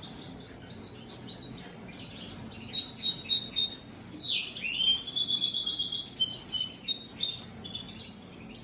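European goldfinch singing: a fast, tinkling twitter of short high notes. About halfway through there is a downward slide and then a quick buzzy trill before the twittering carries on.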